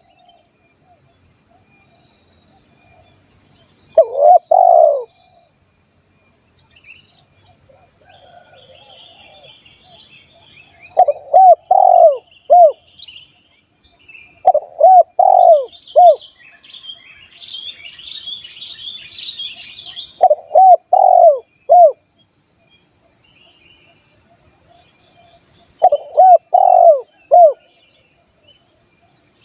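Spotted dove (tekukur) cooing: five phrases of three or four low, arched coo notes, a few seconds apart. A steady high insect buzz runs underneath, and small birds chirp faintly in the middle.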